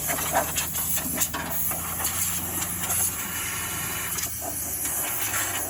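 Compressed-air blow gun hissing in irregular spurts as sandblasting dust is blown off a car body, over a steady low hum.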